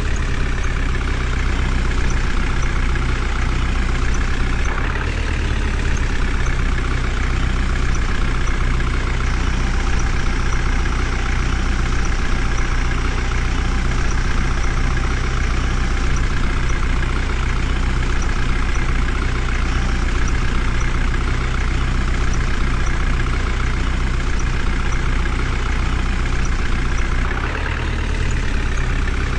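Heavy diesel engine of a loaded tractor or earth-moving machine running steadily, its low note shifting slightly about five seconds in and again near the end.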